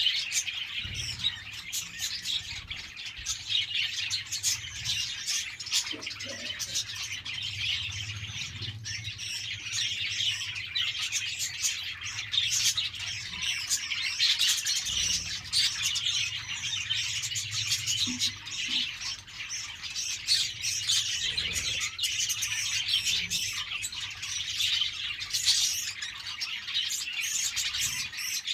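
A flock of budgerigars chattering and chirping without a break, many overlapping calls with occasional squawks.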